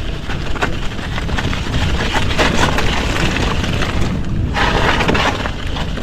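Electric mountain bike descending a steep, loose dirt trail: wind buffets the microphone with a low rumble while the tyres crunch and rattle over the rough ground.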